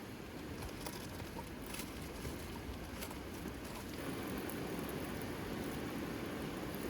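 Steady rain falling, an even wash of noise with a few sharp ticks scattered through it, growing slightly louder about four seconds in.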